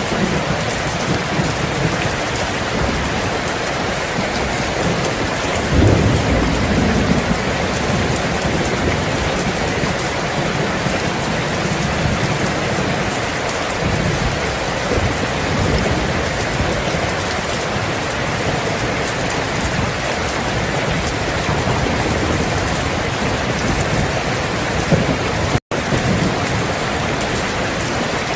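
Steady heavy rainfall with low rolls of thunder, the strongest about six seconds in and more from about twelve to fifteen seconds. The sound cuts out for an instant near the end.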